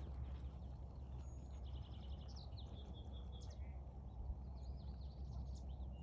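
Small birds chirping, one giving a rapid trill of even notes about two seconds in, over a steady low rumble of outdoor background noise.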